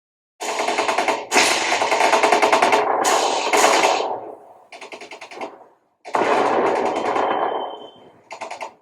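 Machine-gun fire sound effect in several bursts of rapid shots: a long burst of about three and a half seconds, a short one, another of about two seconds, and a brief one near the end.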